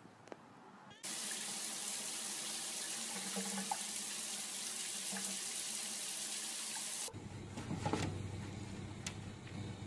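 Tap water running into a tub: a steady rush of water that starts suddenly about a second in and cuts off about seven seconds in. It gives way to a low steady hum with a few faint knocks.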